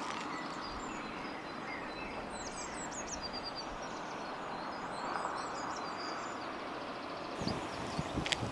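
Small birds chirping and singing over a steady outdoor background hiss, with footsteps on the ground in the last second or so.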